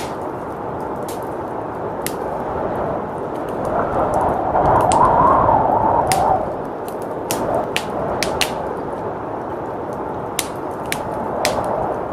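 A wood fire crackling, with scattered sharp pops, over a steady rushing blizzard wind that swells in a gust about four seconds in.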